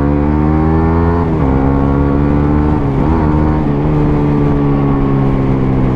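125 cc single-cylinder motorcycle engine accelerating under the rider, its pitch climbing and dropping twice at upshifts about one and a half and three seconds in, then holding at a fairly steady speed.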